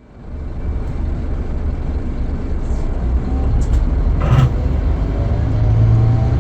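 Scania K440EB coach's diesel engine running with a steady low rumble, heard from inside the coach, with a short knock about four seconds in.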